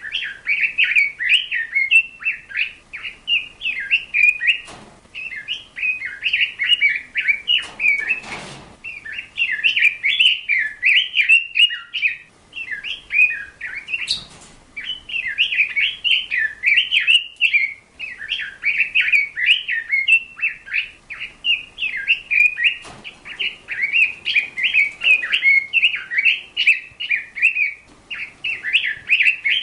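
A bird chirping and twittering almost without pause, a fast run of short high notes broken only by brief gaps, with a few soft noises now and then.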